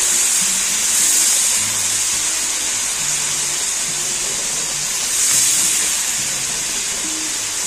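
Chopped onions, garlic-ginger paste and whole cumin sizzling in hot oil in a karahi: a steady high hiss that swells about a second in and again about five seconds in. Soft background music plays underneath.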